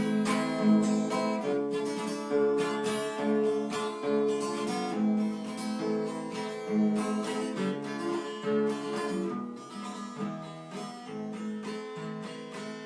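Acoustic guitar strumming chords in an instrumental break of a Russian romance, with no voice.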